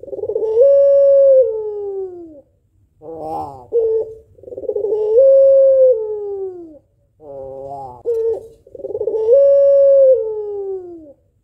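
Female white puter pelung (Barbary dove) cooing: three long, drawn-out coos that hold one pitch and then glide downward, with a shorter, stuttering coo between each. This is the female's long calling coo, used to rouse a male into cooing.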